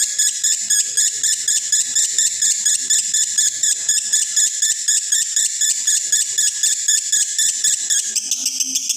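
Male lovebird in breeding condition chattering in the continuous 'konslet' style: high chirps repeated evenly, about five or six a second, without a break. About eight seconds in the chirping changes character and a low steady hum comes in beneath it.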